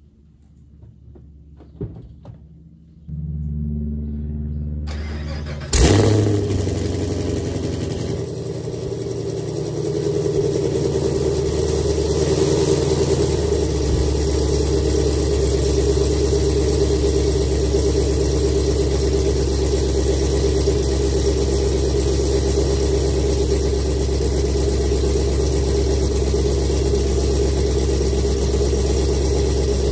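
Chevrolet Camaro SS's 6.2-litre LT1 V8, with 2-inch catless headers and an X-pipe, starting up: a knock about two seconds in, then the engine fires with a loud burst about six seconds in and settles into a steady idle.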